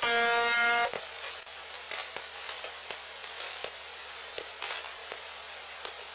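Shortwave radio recording of UVB-76, "The Buzzer": one short buzz tone of just under a second at the start, followed by radio static with scattered clicks.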